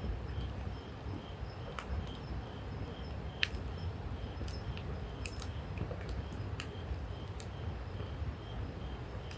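Wood campfire crackling: irregular sharp pops and snaps over a steady low noise of the burning fire. A faint insect chirps in the background, about twice a second.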